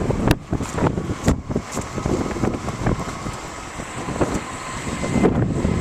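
Storm wind buffeting the microphone in gusts, over the steady noise of street traffic, with a few sharp knocks.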